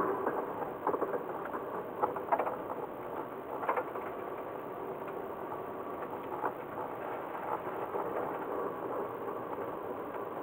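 Car interior noise picked up by a dashcam in a Toyota Chaser (JZX100) driving slowly: a steady rumble with irregular small clicks and rattles.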